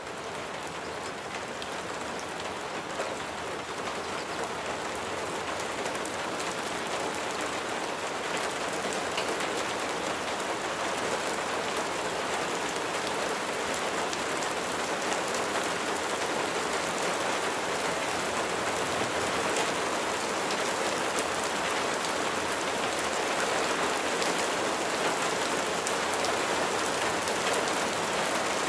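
Steady rain falling, an even dense hiss with faint individual drops ticking through it. It grows slightly louder over the first ten seconds or so, then holds steady.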